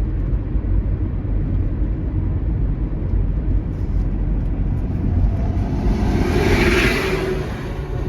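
Vehicle driving noise heard through a dashcam: a steady low road and engine rumble, with a swell of hissing noise building and fading about six to seven seconds in, as of a vehicle passing close by.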